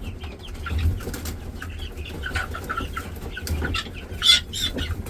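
Guinea fowl giving a string of short calls, with wings flapping.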